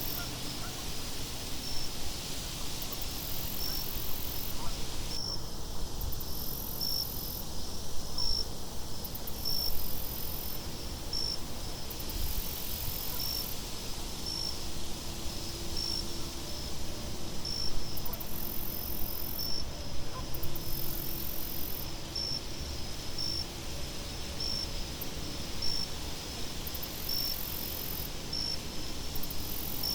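Crickets chirping in a steady high trill with regular pulses about once a second, over a low wind rumble.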